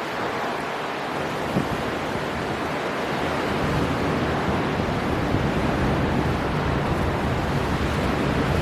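Storm wind blowing hard over the sea with surf breaking: a steady, even rush of noise that slowly grows a little louder.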